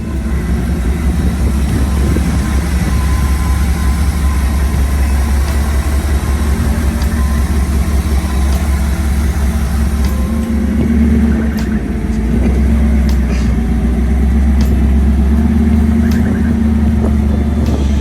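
1967 Ford F100's V8 engine running steadily after its head gasket replacement, getting a little louder about eleven seconds in.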